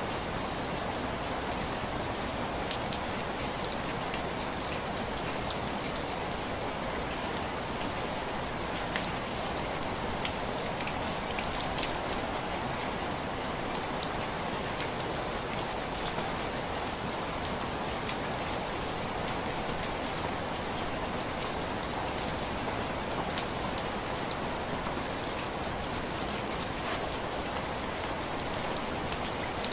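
Steady rain on window glass: an even hiss of rainfall with scattered sharp ticks of single drops striking the pane.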